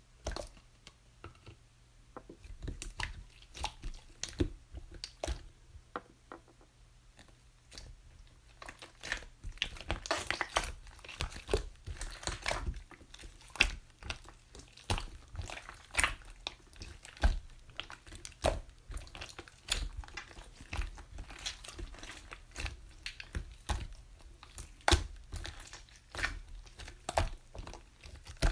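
Peach slime being squeezed and poked by hand, making a stream of irregular sticky clicks and crackles that grows much denser about eight seconds in.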